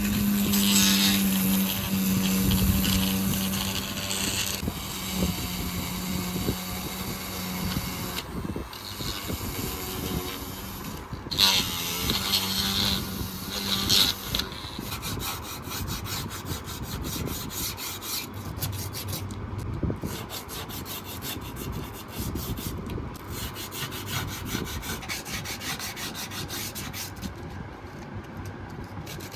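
A small motor hums steadily for the first eight seconds or so and again briefly around the middle. Then come rapid, repeated scraping strokes, like hand sanding or filing.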